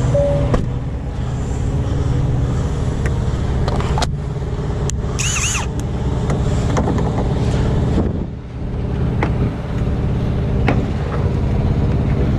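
Truck diesel engine idling, a steady low rumble, with scattered clicks and a brief high squeal about five seconds in.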